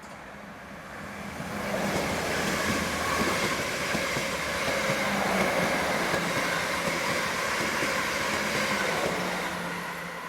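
Electric multiple-unit train running along the platform. Its noise builds over the first two seconds, holds steady with a low hum, and begins to fade near the end.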